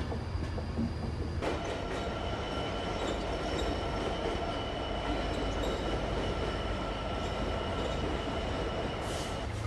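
A train moving slowly through a station: a steady low rumble, joined about a second and a half in by a high, steady, multi-toned whine that holds until just before the end, then a brief rush of noise.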